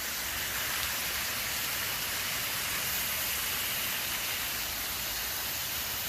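Waterfall rushing steadily, its flow swollen by several days of rain.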